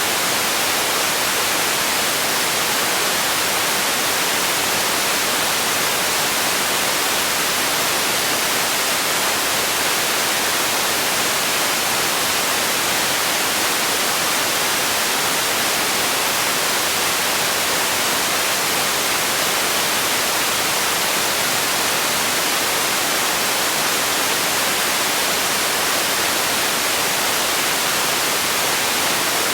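Steady, unchanging hiss of generated noise for sleep and relaxation, heavier in the treble than the bass, like white noise.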